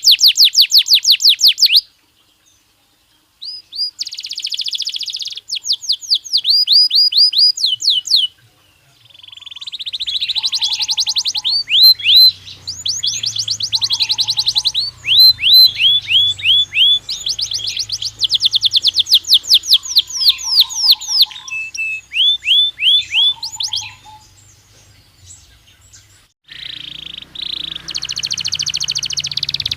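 Belgian canary singing: fast trills of repeated down-sweeping whistled notes, in phrases broken by short pauses, with a brief silence about two seconds in.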